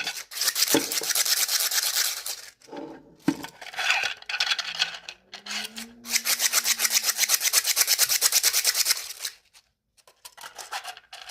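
3D-printed plastic fidget toy being worked by hand, giving a fast, even, rasping run of plastic clicks in several spells, the longest and most regular lasting about three seconds near the end.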